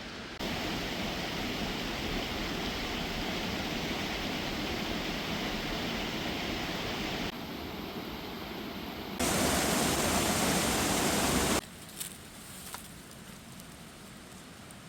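Waterfall's rushing water, a steady roar whose loudness jumps abruptly up and down several times, loudest for a couple of seconds past the middle, then much quieter near the end with a few faint clicks.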